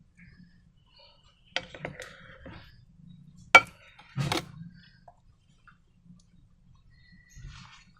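A few sharp clacks and knocks of objects being handled, the loudest a single clack about three and a half seconds in, with smaller clatters just before and after it.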